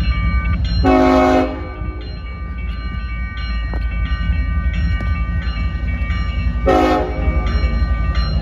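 CSX diesel locomotive sounding its horn in two short blasts, the first about a second in and a shorter one near the end, over the steady rumble of the passing train. A repeated high ringing goes on in the background.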